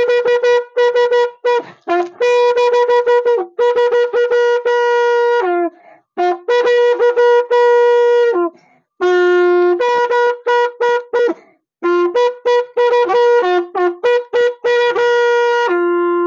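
Papaya leaf-stalk pipe blown like a horn, playing a folk tune in quick detached notes that mostly alternate between two pitches, in phrases separated by short breaths. Near the end it holds one longer, lower note.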